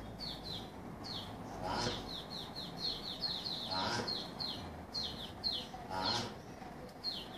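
Small birds chirping in quick runs of short, falling notes, with a louder, lower call that repeats about every two seconds.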